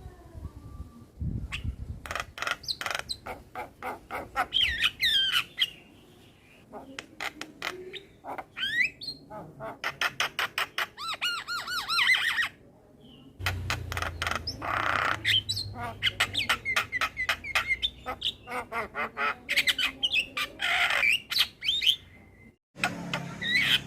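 Male Javan myna (jalak kebo) singing a long, varied song of rapid clicks, whistled glides and harsh squawks, with a few short pauses.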